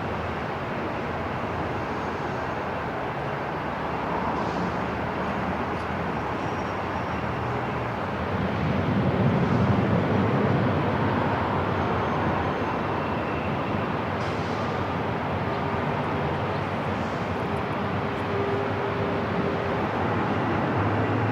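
Airport ambience: a steady, rumbling wash of noise, swelling for a couple of seconds about nine seconds in, with faint hums coming and going.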